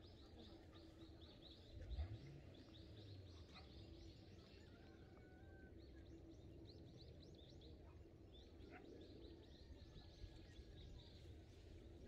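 Faint small birds chirping, a quick run of short high chirps about four a second, over a faint steady low hum. A single low thump about two seconds in.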